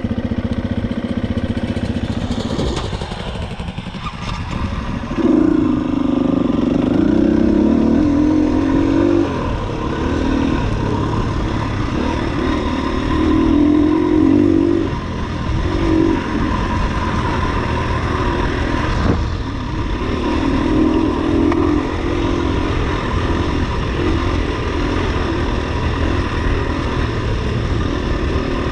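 KTM 250 enduro dirt bike engine running under way, the throttle opening and easing again and again, with a sharp knock partway through.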